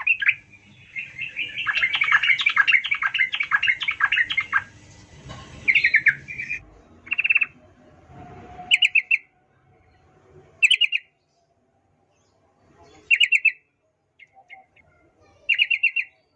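Yellow-vented bulbul (trucukan) singing. A long run of rapid chattering notes comes first, then a series of short bursts of quick notes with gaps of a second or two between them.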